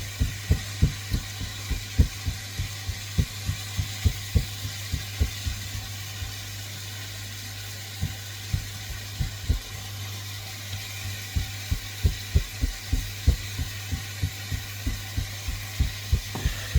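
Dumpling mix being worked in a bowl: a run of soft, low knocks, about two or three a second, that stops for a couple of seconds midway and then picks up again, over a steady low hum.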